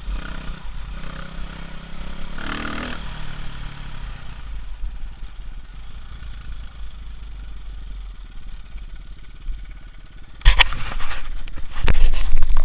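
Off-road enduro motorcycle engine running at low revs, with a brief louder burst about two and a half seconds in. From about ten and a half seconds, loud irregular clattering and knocking take over.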